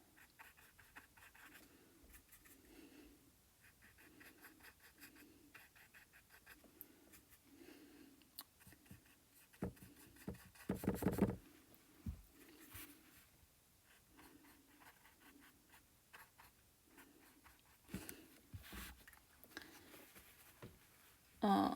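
A paintbrush dabbing and scratching acrylic paint onto a painting surface in soft, repeated little strokes, with a louder clatter about halfway through.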